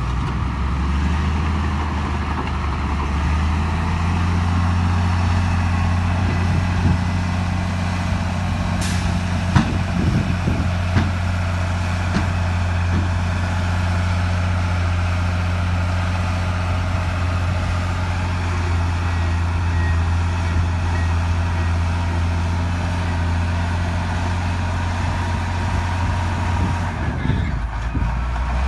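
Heavy diesel earthmoving machine running steadily under load, with its engine picking up a few seconds in. A few sharp metal clanks come about nine to thirteen seconds in, and the engine note drops near the end.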